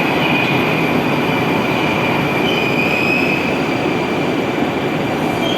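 Moscow Metro train running along the track: a dense steady rumble with the steel wheels squealing in a high, thin whine over it.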